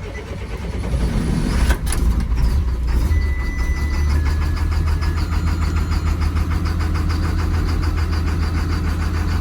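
Cold start of a school bus's diesel engine: it turns over, catches just under two seconds in and settles into a steady idle that is "not happy" in the cold.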